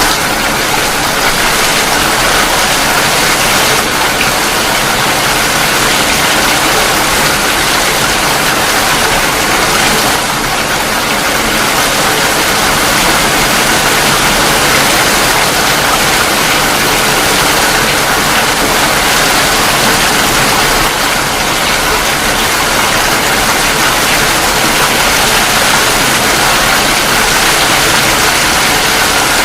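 Steady heavy rainfall: a loud, even hiss of rain with no distinct drops or breaks.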